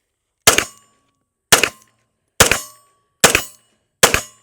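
Five shots from a full-size Taurus 1911 pistol in 9mm, fired at an even pace about a second apart. Each shot is followed by a brief metallic ring.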